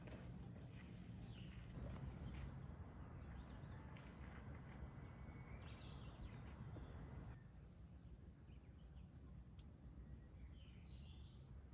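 Near silence with a low background rumble and a few faint, short bird chirps: about a second and a half in, around six seconds in, and again near the end.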